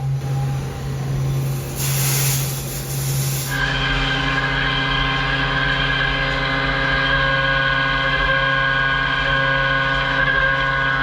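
Haas VF2 CNC milling machine running its spline-milling program. There is a steady low hum, a hiss for about two seconds, then a steady whine of several tones that sets in about three and a half seconds in and holds.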